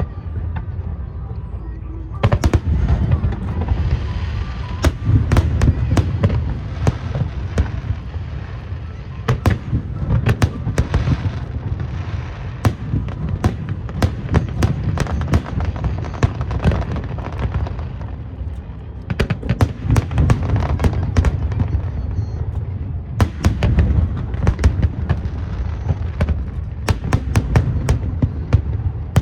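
Aerial fireworks bursting in quick succession: a dense run of sharp bangs and crackles over deep booms, thinning for a few seconds in the middle and thickening again near the end.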